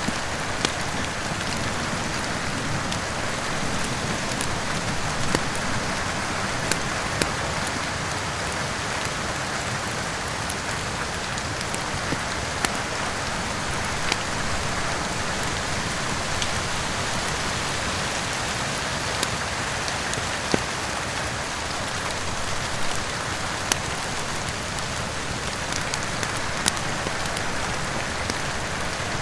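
Steady rain falling, with scattered sharp pops and crackles from a wood fire in a fireplace every few seconds.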